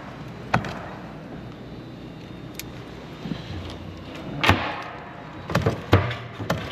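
Several sharp knocks and clunks over a low steady background: one about half a second in, a louder one about four and a half seconds in, and a quick run of three near the end.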